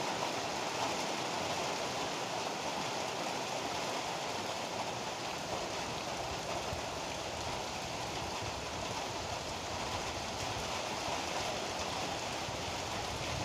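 Heavy rain falling in a steady, dense hiss with no break.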